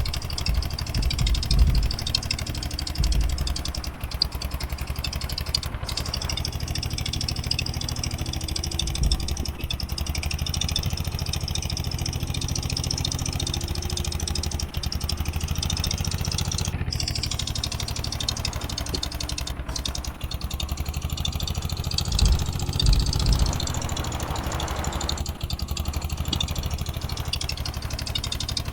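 Eicher 241 tractor's single-cylinder diesel engine running steadily, with a few heavier low knocks near the start and again about 22 seconds in.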